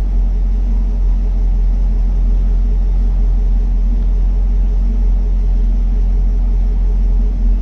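2020 Chevy Camaro SS's 6.2-litre LT1 V8 idling steadily with a deep, even rumble, heard from inside the cabin.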